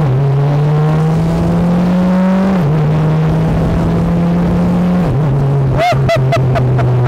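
BAC Mono's four-cylinder engine, heard loud from just behind the open cockpit, revving up under acceleration. The revs climb, then drop sharply twice as the sequential gearbox upshifts, about two and a half and five seconds in.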